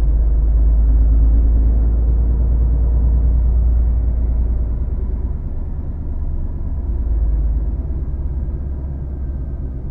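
HGV lorry's diesel engine and road noise heard from inside the cab while driving: a loud, steady deep rumble that eases a little about halfway through.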